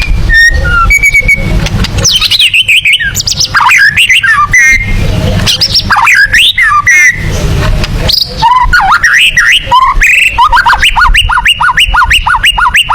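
White-rumped shama (murai batu) singing loud, varied whistled phrases with rising and falling sweeps, then, about two-thirds of the way through, a fast run of evenly repeated notes at about five a second.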